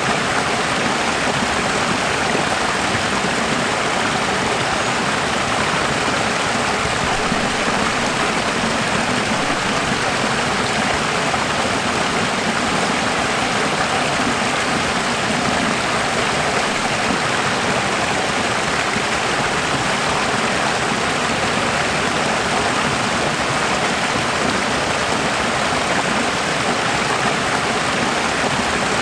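Running water, a steady, even rush like a stream with no breaks or changes.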